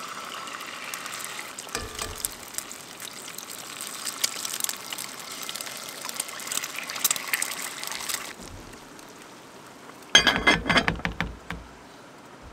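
Eggs frying in hot oil in a cast-iron pan, sizzling and crackling with many sharp spattering pops. The sizzle drops away about eight seconds in, and a short, loud clatter follows near the end.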